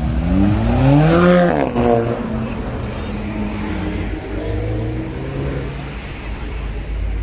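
A car accelerating hard, its engine pitch climbing for about a second and a half, then dropping abruptly, followed by a second, quieter climb a few seconds later, over a steady low rumble.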